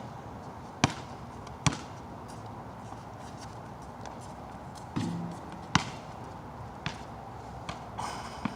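Basketball bouncing on a wet outdoor court: a few sharp, separate bounces over a steady hiss of background noise, with a short pitched cry or squeak about five seconds in.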